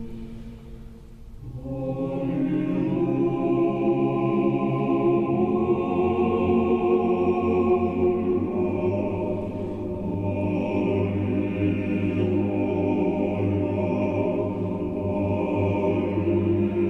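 A choir singing slow, long-held chords. About a second in the sound dips briefly, then a new chord swells in and is held.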